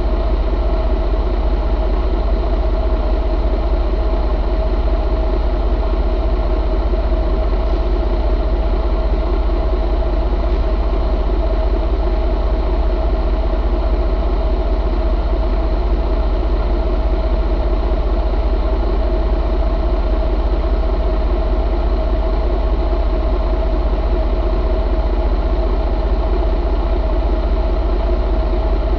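Detroit DD15 inline-six diesel engine idling steadily.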